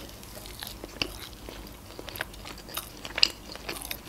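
A woman chewing a bite of deep-fried tempura sushi roll close to the microphone: soft wet mouth sounds with scattered crunchy clicks, the loudest about three seconds in.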